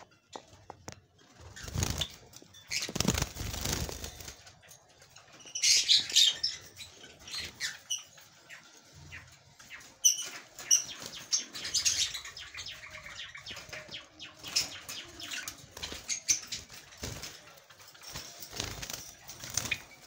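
Java sparrows fluttering their wings and rustling in a cage, in irregular bursts, with a few short high chirps about halfway through.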